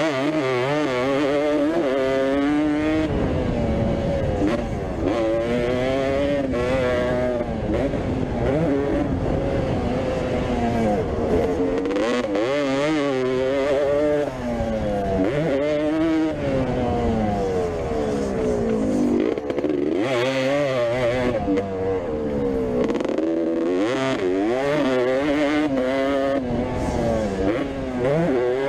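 Vintage motocross bike engines revving hard, the pitch rising and falling over and over as they accelerate, shift and back off around the track.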